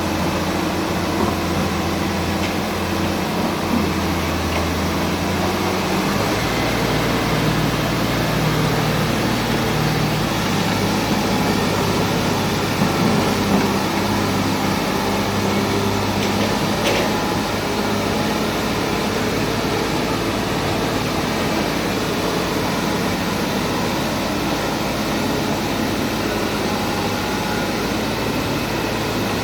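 Heavy diesel engines of tracked construction machines running steadily under work. The engine note shifts about six seconds in and again around ten seconds in.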